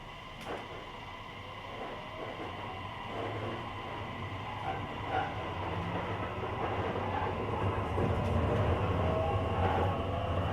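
JR Kyushu 885-series Hitachi-equipped electric train, heard from the vestibule deck, running and picking up speed. The traction motor and inverter whine rises slowly in pitch and grows louder, over a low rumble of wheels on rail. This is its post-refurbishment-style inverter sound.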